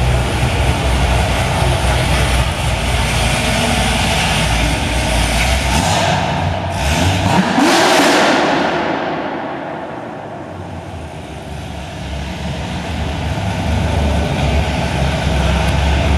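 A car engine accelerating hard, its note climbing to a peak about halfway through, then fading as the car drives off, with engine noise building again near the end.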